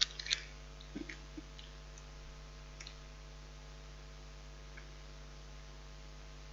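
Eating sounds: a few sharp clicks and taps in the first three seconds, the loudest right at the start, then only a faint steady hum.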